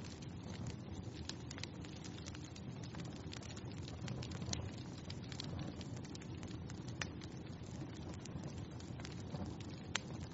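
Wood fire burning in a fireplace: a steady low rush of flames with frequent irregular crackles and small pops, one sharper pop near the end.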